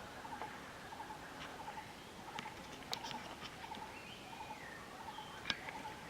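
Wild forest birds calling: one bird repeats a short low note about twice a second, while others add scattered higher chirps and a few sharp clicks.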